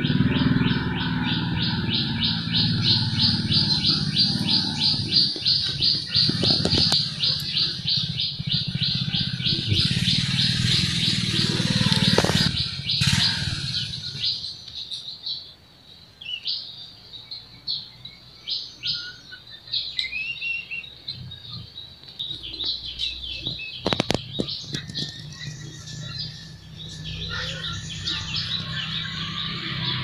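Birds chirping: a fast run of repeated high chirps for the first twelve seconds or so, then sparser single chirps, with a low hum underneath.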